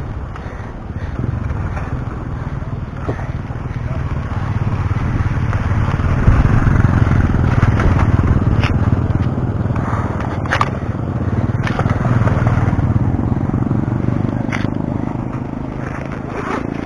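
Wind rush and road noise on a chest-mounted action camera's microphone while riding a bicycle, swelling louder in the middle, with a few sharp clicks or knocks from bumps.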